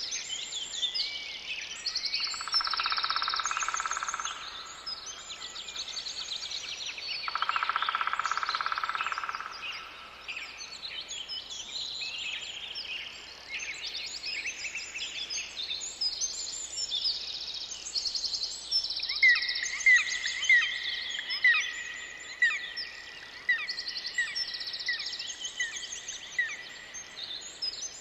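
Forest birdsong: many birds chirping and trilling at once. Two buzzy trills of a couple of seconds each come early, and from about two-thirds of the way through one bird repeats a short note about one and a half times a second.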